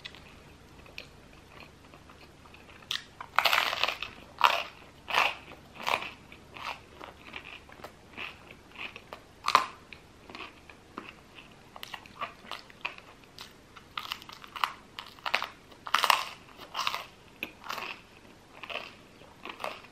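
Close-miked crunching and chewing of crusty baguette with cheese: irregular crisp crunches, about one or two a second, starting about three seconds in.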